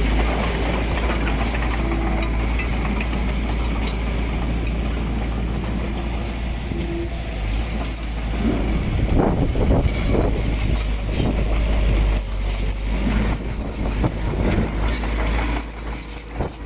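Heavy diesel earthmoving machinery running steadily with a deep engine rumble. About halfway through, irregular knocks and clanks with small high squeaks join in.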